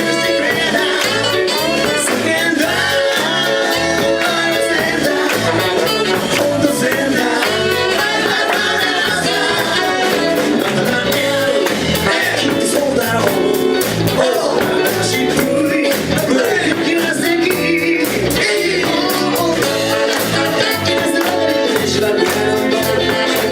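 A song performed live: singing over instruments with a steady beat.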